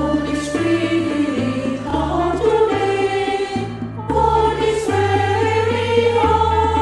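Women's choir singing held notes, with no clear words, over an accompaniment with a low bass line that changes note every second or so.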